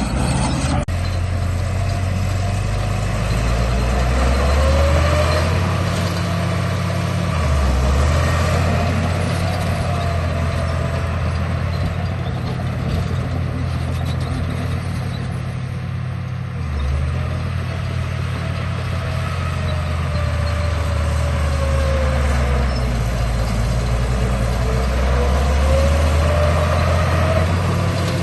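Radio-controlled bulldozer running: a steady low engine-like rumble with a fainter motor whine that rises and falls several times as it drives and works.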